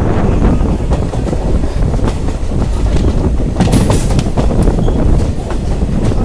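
Moving express train heard from aboard: the coach's wheels clatter over rail joints above a steady heavy rumble, with a brief sharper noise just before four seconds in.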